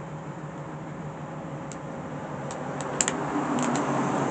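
Train rumble growing steadily louder over a steady low hum, with several sharp clicks in the second half.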